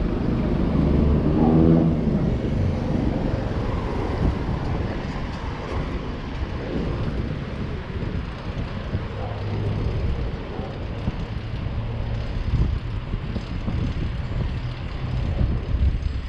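City street traffic: cars and engines passing, with wind noise on the microphone.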